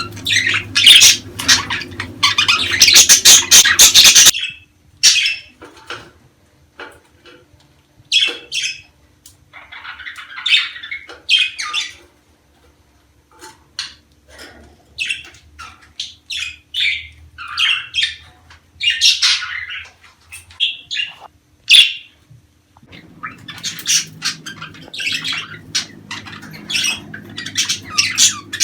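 A group of budgerigars chattering with rapid chirps and squawks. The calls are dense at first, thin out to scattered single calls from about four seconds in, and crowd together again near the end.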